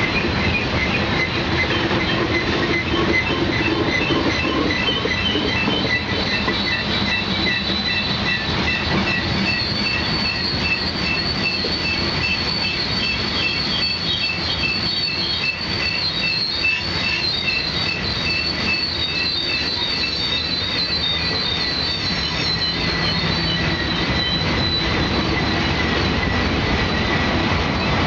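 Union Pacific freight train's cars rolling past, with steel wheels squealing in several high, wavering tones over a steady rumble and clacking of wheels on the rails.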